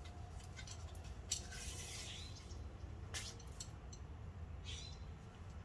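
Small items being handled and unpacked: a few light clicks and knocks with short bursts of rustling, as of packaging being opened.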